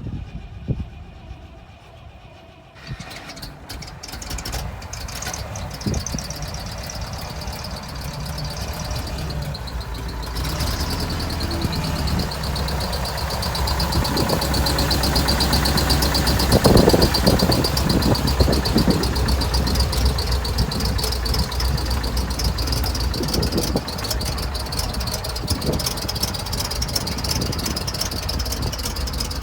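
1971 International truck's engine running with a low, steady rumble that starts a few seconds in and slowly grows louder. A high, steady whine joins about a third of the way through, and the engine briefly gets louder about halfway.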